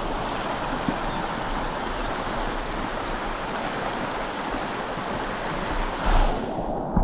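Steady rush of river water running over a shallow, fast run, with wind buffeting the microphone in a brief low bump about six seconds in.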